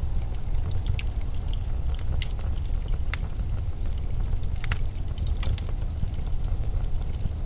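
Steady low rumble of a winter windstorm, with scattered sharp crackles and ticks on top.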